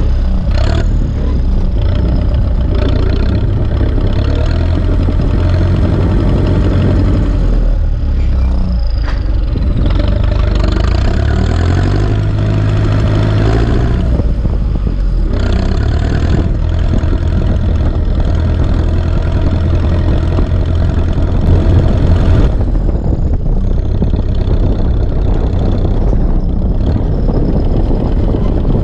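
Ursus C-360 tractor's turbocharged four-cylinder diesel engine running steadily under load while pulling a field roller. The engine note shifts and rises a little between about ten and fourteen seconds in.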